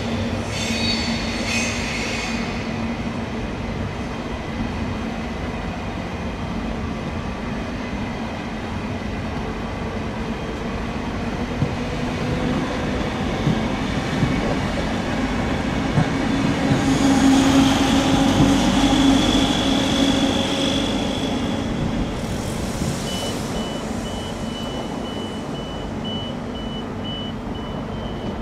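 Electric passenger trains running through the station: a steady rumble of wheels on rail with a low electric hum. It swells to its loudest about two thirds of the way in, with a low drone and a high whine. A thin, steady, high-pitched wheel squeal carries through the last few seconds.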